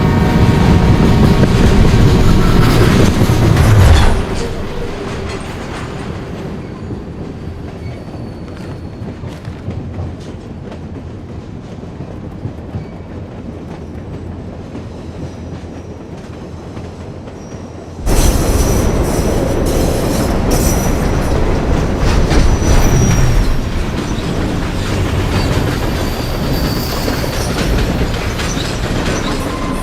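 Train running on the rails, with wheels clattering and squealing. It is loud for about four seconds, drops suddenly to a quieter, duller rumble, then cuts back to full loudness about eighteen seconds in.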